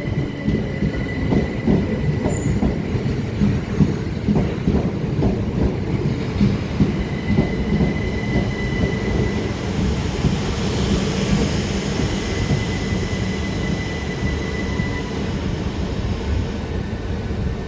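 Class 377 Electrostar electric multiple unit rolling slowly into the platform on arrival, a steady rumble of wheels on rail with a thin high wheel squeal that comes and goes three times.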